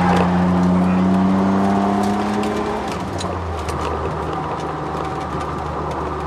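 Ford Sierra XR4x4 twin-turbo V6 heard from inside the cabin on track. The engine pulls with its pitch rising for about three seconds, then the revs drop and it runs on steadily, with knocks and rattles from the bumpy cabin throughout.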